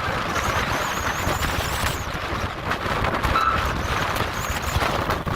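Storm wind gusting at gale force and buffeting the microphone: a steady rushing noise over low, uneven rumbling, with a faint high whistle coming and going.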